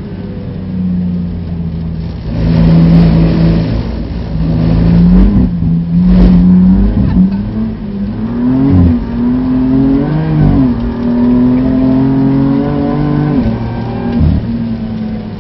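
BMW F80 M3's twin-turbo straight-six heard from inside the cabin, pulling hard through the gears. The engine note holds steady for a few seconds, then climbs in the second half, dropping sharply at each of three upshifts. Bursts of hiss come about two to four seconds in and again about six seconds in.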